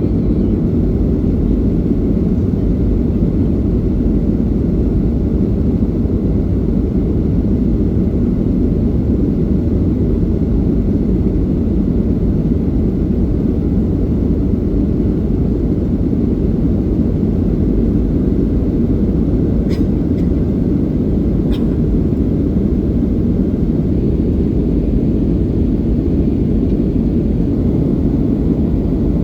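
Steady low cabin roar of a Boeing 737-800 climbing after takeoff: engine and airflow noise heard from inside the passenger cabin. Two faint clicks come about twenty seconds in.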